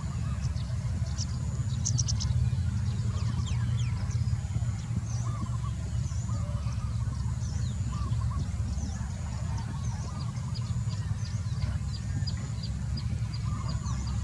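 Birds calling outdoors: repeated short calls and many brief, high, sharp chirps, over a steady low rumble.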